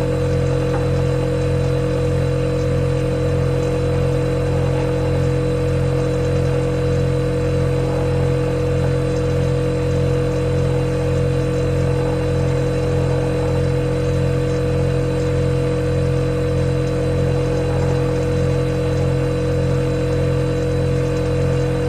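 Refrigerator compressor humming steadily: a deep hum with a slow, even throb, a steady mid-pitched tone above it and a faint hiss.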